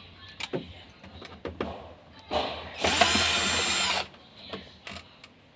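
A power screwdriver or drill running briefly, then whirring steadily for about a second before stopping sharply, driving in a screw, with small clicks and knocks of handling around it.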